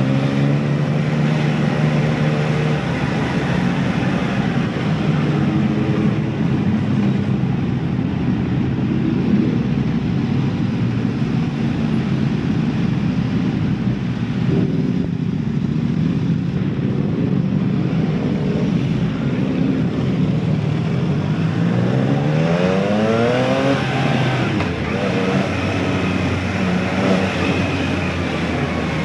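Motorcycle engine and exhaust under way, running at a steady speed, then revving up hard about three-quarters through as the rider accelerates, the note climbing steeply.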